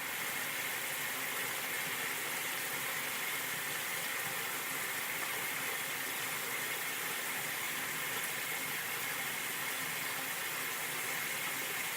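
Shower water spraying steadily.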